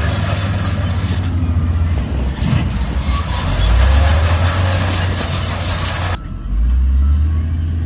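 Heavy diesel earthmoving machinery running, a deep low engine drone with a broad hiss over it. The hiss cuts off suddenly about six seconds in, leaving the low engine drone.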